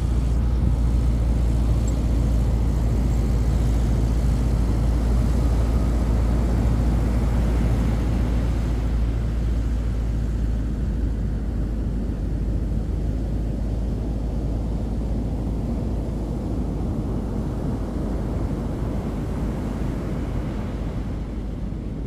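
Steady low drone of a ski-boat's twin 200 hp Suzuki outboard motors mixed with surf noise, easing off after about ten seconds.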